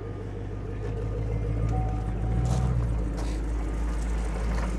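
Supercharged 6.2-litre V8 of a fifth-generation Chevrolet Camaro ZL1 idling with a steady low rumble, with music playing over it.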